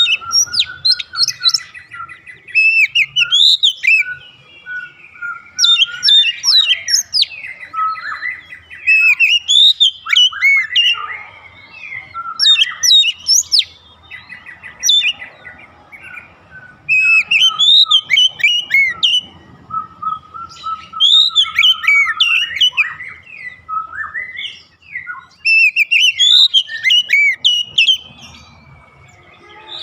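Oriental magpie-robin singing: loud, varied whistled phrases with rapid pitch sweeps, delivered in bouts of one to three seconds with short pauses between them.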